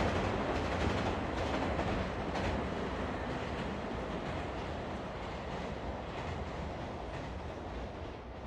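Freight train running past on the track, its wagon wheels clicking over the rail joints, the sound slowly fading as it moves away.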